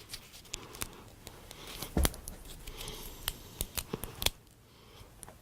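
Scissors snipping through an elastic band: a handful of sharp clicks, the loudest about two seconds in and several more in quick succession a little after three seconds.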